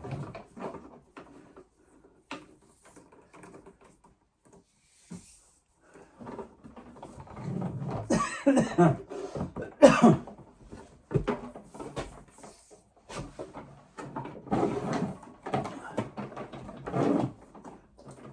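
Rustling, scraping and knocking of Cat6 network cable being handled and dragged about, busiest in the second half, with one sharp knock about halfway through.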